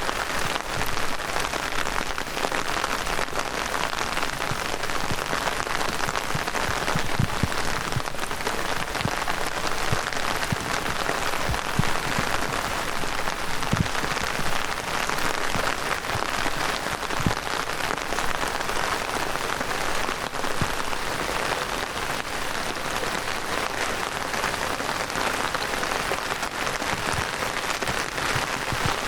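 Heavy downpour: a steady hiss of rain with many small scattered drop hits.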